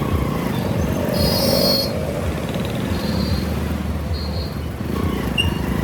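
Motorcycle riding through city traffic: steady engine and road rumble heard from the rider's helmet camera. A brief shrill high-pitched tone sounds about a second in, with a couple of fainter short chirps later.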